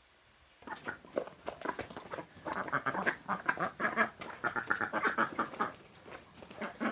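A flock of domestic ducks quacking, many short calls overlapping. It starts suddenly about half a second in.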